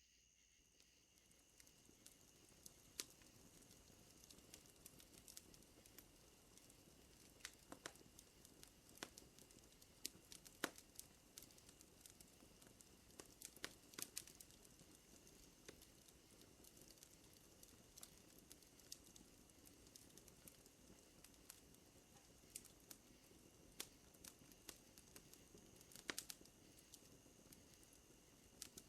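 Faint wood fire crackling, with irregular sharp pops scattered over a low hiss, over a steady high trill of night insects.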